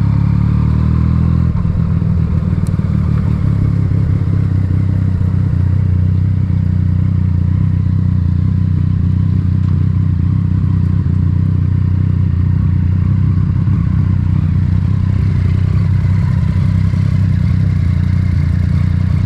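Yamaha MT-09's three-cylinder engine running through an Akrapovic titanium exhaust while riding. The engine note shifts in the first second or so, then holds steady at cruising revs.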